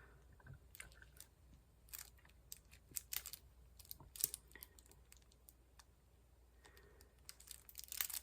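Faint, irregular light clicks and short crinkles of small plastic diamond-painting supplies being handled, with a quick cluster of clicks near the end.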